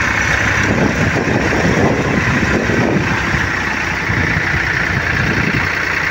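Tractor diesel engine running steadily, with the engine noise swelling a little about a second to three seconds in.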